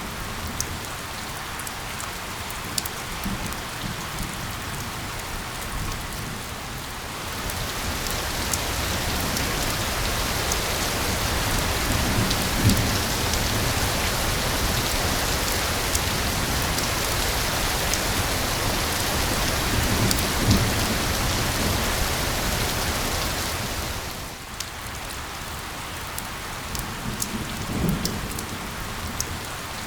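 Steady rain falling, with individual drops ticking through a dense hiss. The rain grows heavier from about a quarter of the way in until near the end, then eases back. A few low rumbles come through.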